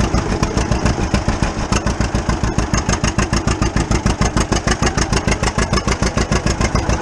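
1935 unstyled John Deere A's two-cylinder engine pulling along in high gear, its exhaust popping in a fast, even beat.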